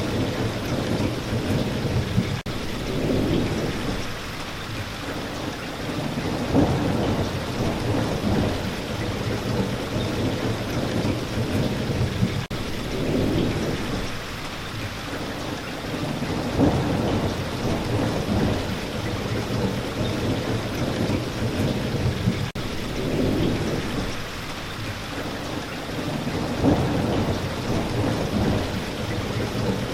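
Steady rain falling, with a low rumble that swells and fades in a cycle repeating about every ten seconds.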